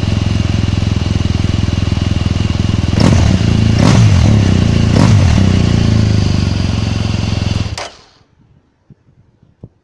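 BMW R1200GS LC's boxer twin idling through an Origin aftermarket muffler, with three quick throttle blips about a second apart. The engine is switched off and stops about eight seconds in, leaving near silence with a few faint light knocks.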